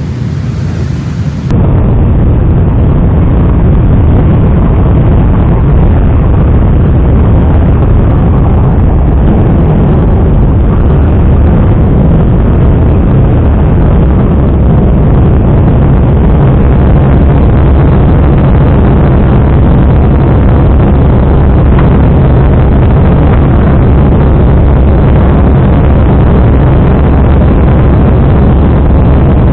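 Motorcycle engine noise, loud and steady and overloading the microphone, starting abruptly about a second and a half in.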